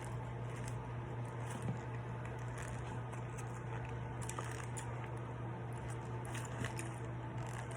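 Soft, wet chewing of a mouthful of hamburger, with faint irregular clicks and squishes of the mouth, over a steady low hum.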